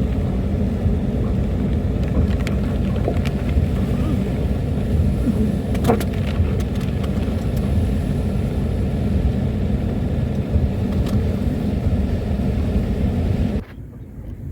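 A vehicle running with a steady low rumble of engine and road noise, with a few light clicks, cutting off abruptly near the end.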